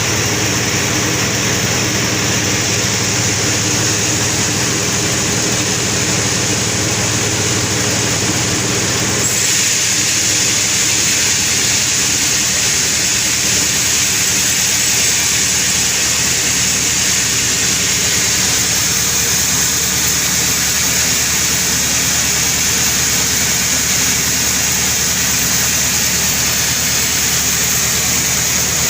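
Sawmill saw running steadily through a very large albizia log. About nine seconds in, the steady machine hum gives way to a slightly louder, noisier sawing sound that carries on to the end.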